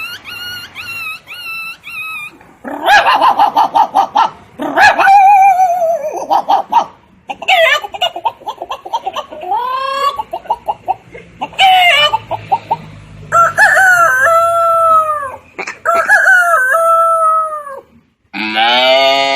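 A person mimicking farmyard animal calls one after another: rapid hen-like clucking, then long, drawn-out rooster-like crows. Near the end a different call begins.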